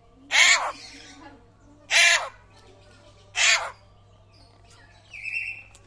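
Papuan butcherbird (hooded butcherbird) giving loud, harsh calls, three in a row about a second and a half apart. A shorter, fainter, higher note follows near the end.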